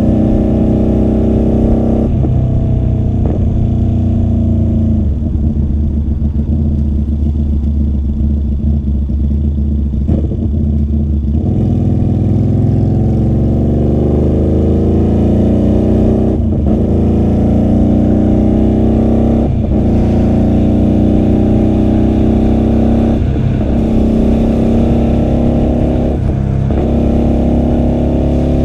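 QJMotor SRV250 motorcycle with a custom-made 2-into-1 exhaust, riding and accelerating: the engine note climbs in pitch and drops briefly at each gear change, several times, most often from the middle on.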